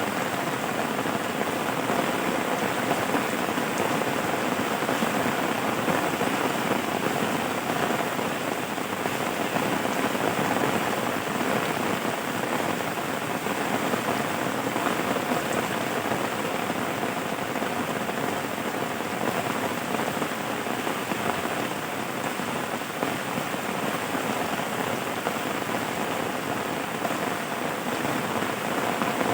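Steady rain falling on a surface, an even hiss of many drops with no thunder or other events.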